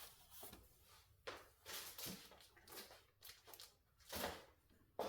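Faint rustling and sliding of paper sheets and photos being handled and moved about, a few short soft swishes, the clearest about four seconds in.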